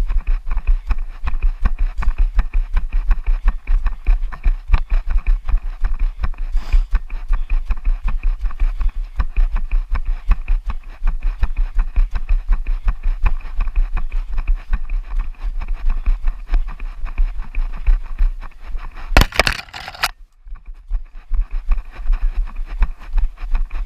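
A runner's footsteps: a fast, steady run of low thuds and scuffs. A short, louder rushing burst comes about nineteen seconds in, then a brief lull.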